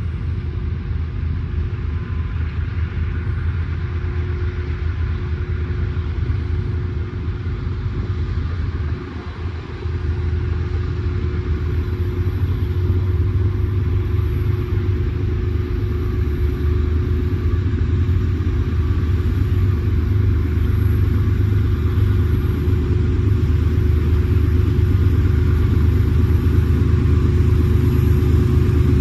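Diesel freight locomotives running with a steady low rumble and a steady hum, slowly growing louder.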